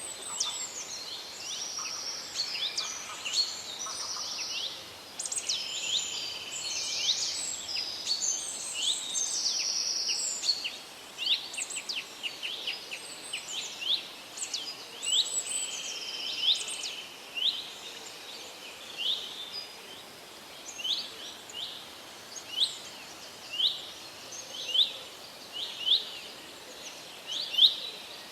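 Several songbirds calling and singing over a faint steady hiss: a dense mix of whistles and trills in the first half, thinning to a single bird repeating a short sharp chirp about once a second.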